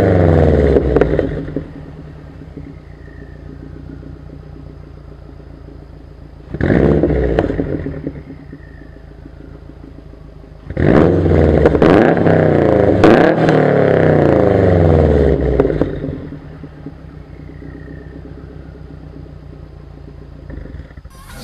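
A 2011 Subaru WRX's turbocharged 2.5-litre flat-four, breathing through an Invidia downpipe and Q300 exhaust, is revved while stationary. A rev falls back to idle at the start, a short blip comes about seven seconds in, and a longer rev is held for about five seconds from around eleven seconds in. Between the revs the engine settles to a steady idle.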